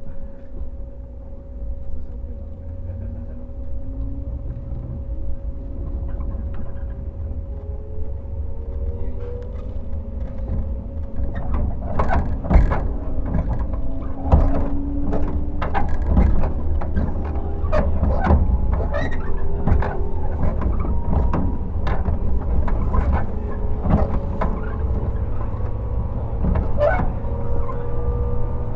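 Inside a JR 115-series motor car: the MT54 traction motors hum, rising in pitch as the train gathers speed, over a steady low rumble. From about halfway the wheels clack repeatedly over rail joints.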